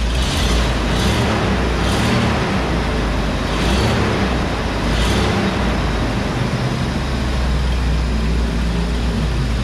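Land Rover Discovery II engine idling steadily with the bonnet open, as a run-up test after its cooling fan and radiator were replaced. A continuous rushing of air and a low hum, with a few brief swells.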